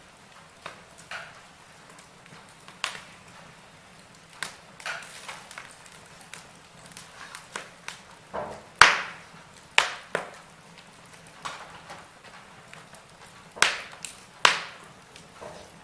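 Wood fire in a fireplace crackling: scattered sharp pops and snaps over a faint steady hiss, with the loudest snaps about halfway through and again near the end.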